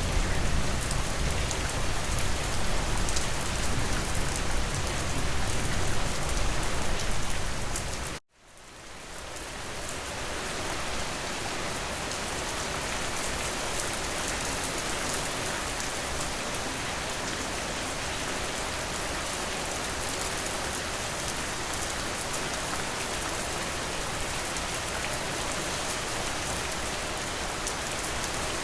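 Steady rain falling, with a low rumble under it. About eight seconds in the sound cuts out abruptly for an instant, then fades back in over a couple of seconds as steady rain without the rumble.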